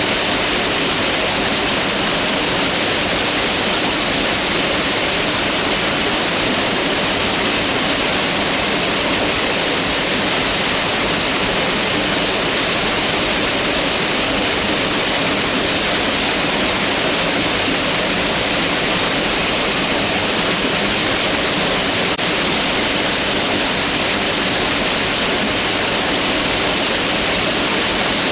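Mountain river rushing over rocks, a steady, unbroken hiss of flowing water.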